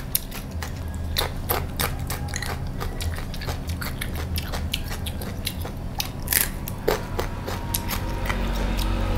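Crunchy biting and chewing of raw winged bean: a quick, irregular run of sharp crunches and clicks.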